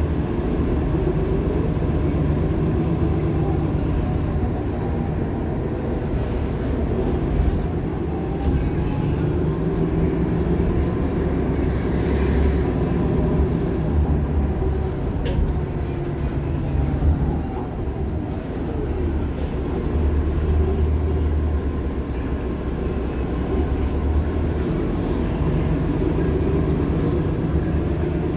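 Onboard sound of a Nova LFSA HEV articulated hybrid bus under way: its Cummins ISL9 diesel runs with a steady low rumble that swells and eases, while the Allison hybrid drive adds pitched whines that slide up and down. A thin high-pitched tone glides up and down a few times.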